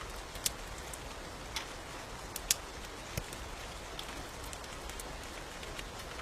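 Steady rain with a few sharp pops of a crackling wood fire scattered through it.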